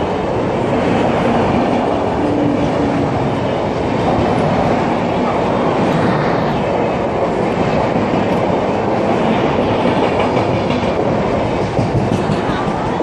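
Express passenger coaches rolling slowly past close by: the steady noise of wheels running on the rails.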